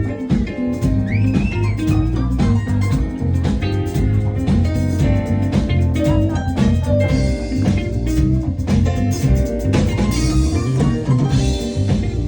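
Jazz-funk band playing live: a moving electric bass line and drum kit under guitar and keys, with cymbals swelling around the middle and again near the end.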